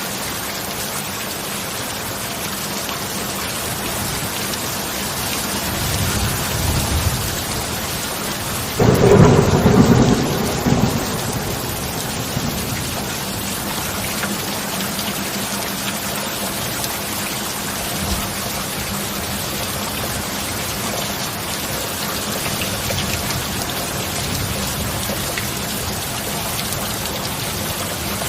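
Steady heavy rain with a thunderstorm: a low rumble of thunder about six seconds in, then a loud clap rolling on for about two seconds from about nine seconds in, and fainter rumbles later.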